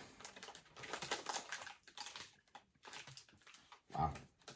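Faint crackling and rustling of plastic snack packaging being handled and opened, in irregular small clicks. A brief low vocal sound near the end.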